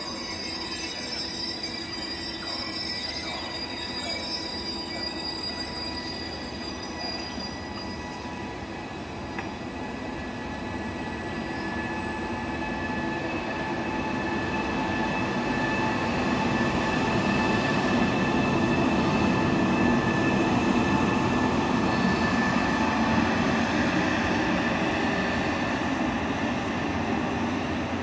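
Passenger train coaches rolling through the station with their wheels squealing in several steady high tones over the rumble of the running gear. It grows louder about halfway through.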